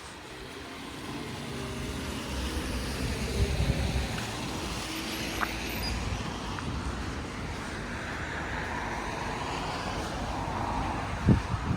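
A car driving past with engine and tyre noise, swelling as it comes close a few seconds in, then a short sharp knock near the end.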